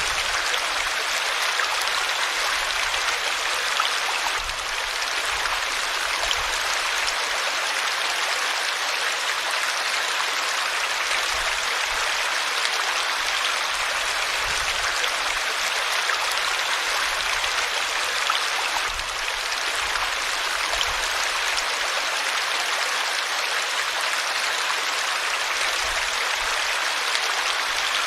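River water flowing steadily, an even rushing sound without pauses.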